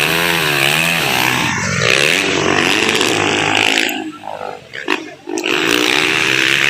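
Motocross bike engines revving, the pitch rising and falling. The sound drops away briefly about four seconds in, then comes back at a steadier pitch.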